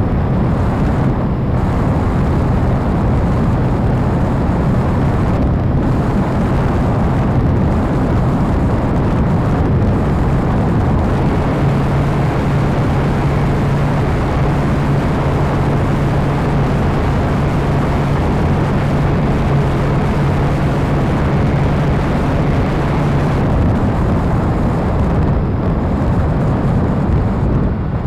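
Radio-controlled model airplane in flight, heard from a camera on board: heavy wind rush over the microphone under the steady drone of the motor and propeller. The drone steps up in pitch about eleven seconds in and drops back about twelve seconds later, as the throttle is raised and then eased.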